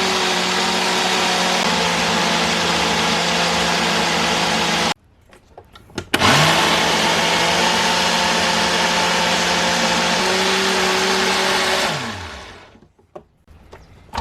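Electric countertop blender blending pineapple and chia pudding into a smoothie. It runs for about five seconds and stops abruptly. About a second later it starts again with a rising whine, runs for about six seconds, then winds down with a falling pitch near the end.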